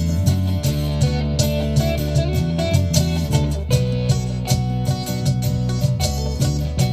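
Music led by a strummed guitar over a steady bass line, with chords struck at an even beat.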